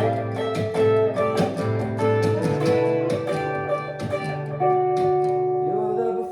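Instrumental music led by acoustic guitar, plucked and strummed chords in a steady rhythm.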